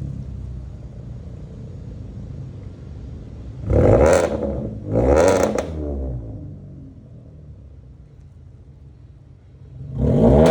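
Hyundai Elantra's engine and exhaust running low, blipped to two short revs about four and five seconds in, then settling back to a low rumble before revving up again near the end. The catalytic converters have just been replaced.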